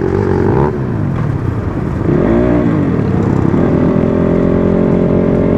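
Dirt bike engine running on the move, its pitch rising and falling about two seconds in, then holding steady.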